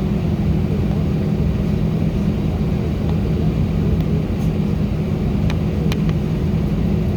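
Steady cabin drone of an Airbus A319: a low rumble with a constant hum, holding even, with a few faint clicks near the end.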